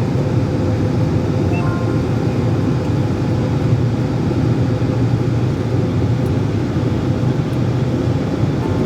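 Airliner cabin noise in flight: a steady rumble of engines and airflow with a faint constant hum.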